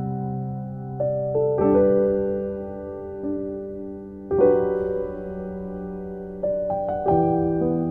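Slow, gentle piano music: soft chords struck every second or two and left to ring and fade.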